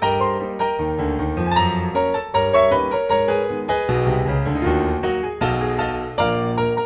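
Background piano music: struck notes and chords in a steady rhythm.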